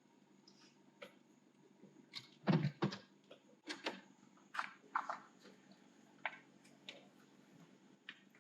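Irregular knocks and clicks over a low steady hum, with two heavier thuds about two and a half seconds in and scattered lighter taps after.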